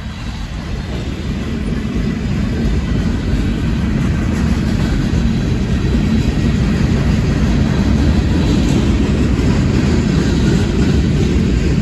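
Freight train rumbling by, a steady low rumble that builds over the first few seconds and then holds.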